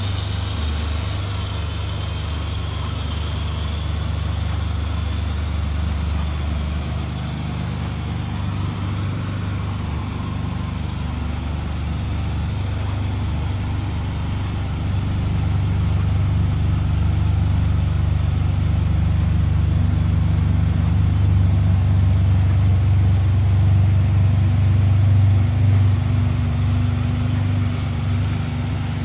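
A Ferrari 612 Scaglietti's V12 engine idling steadily. It grows somewhat louder about halfway through and holds there until near the end.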